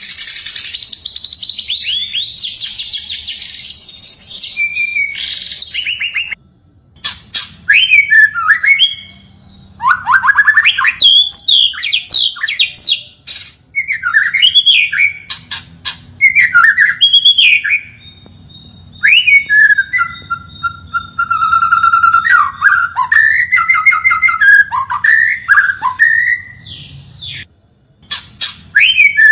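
White-rumped shama (murai batu) singing. A fast, high chattering trill runs for the first six seconds or so, then comes a string of loud, varied whistled phrases with sliding notes, separated by short pauses.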